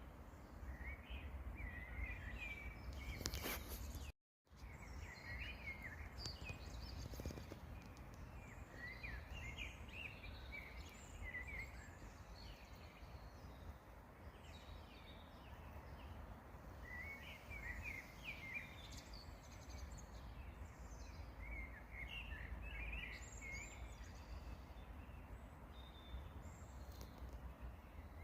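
Songbirds singing outdoors in short chirping phrases that come and go, over a steady low rumble. The sound drops out completely for a moment about four seconds in.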